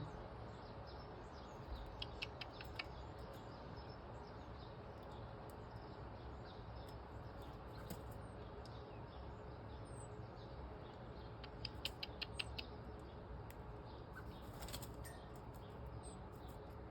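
Faint garden background with small birds chirping thinly. Two short runs of quick clicks come about two seconds in and again near twelve seconds.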